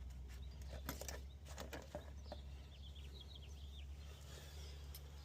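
Faint scattered clicks and light knocks of hand tools being handled, with a quick run of short bird chirps about halfway through, over a steady low hum.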